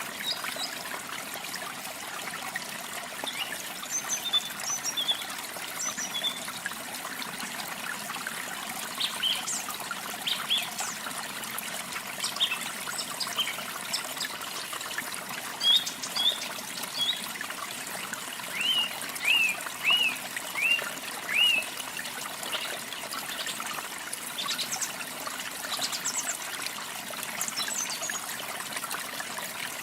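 Running water trickling and splashing steadily, with birdsong over it: scattered short chirps and whistles from several birds, and a run of five quick down-slurred notes about two-thirds through that are the loudest sounds.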